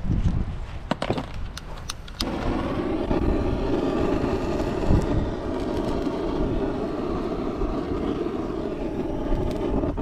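A few knocks and clicks, then about two seconds in a steady, engine-like running sound starts abruptly and holds evenly.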